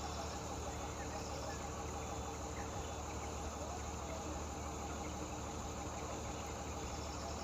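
Insects chirping in short pulsed bursts over a steady low engine hum.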